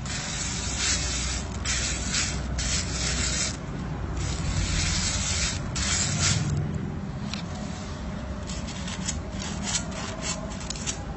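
Slime being worked by hand, in long rubbing, squelching bursts over the first several seconds, then a quick run of small clicks and pops toward the end.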